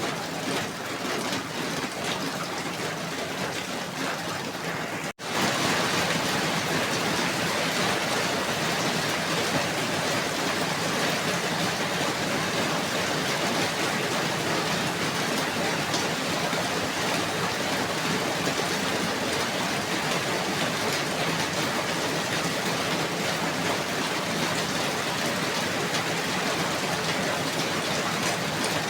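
Steady rain falling, an even, dense hiss. About five seconds in it cuts out for an instant and comes back slightly louder.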